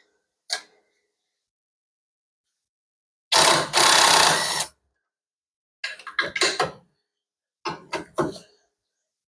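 Socket ratchet clicking in quick runs as bolts are worked loose: one long, loud run a third of the way in, then two shorter bursts of rapid clicks.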